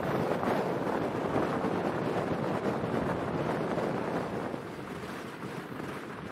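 A passenger train running along the track, heard from an open carriage window: a steady rush of wind and rolling noise. It gets a little quieter about four and a half seconds in.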